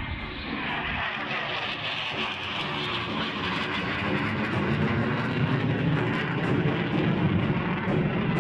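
Jet aircraft engine noise: a dense, steady roar that grows steadily louder.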